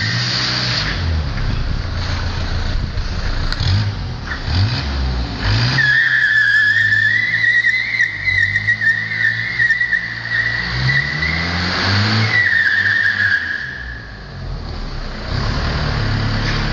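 A truck's engine revving hard as it is thrown into a handbrake turn. The tyres squeal in one long skid for about eight seconds, from about six seconds in, while the engine note rises and falls.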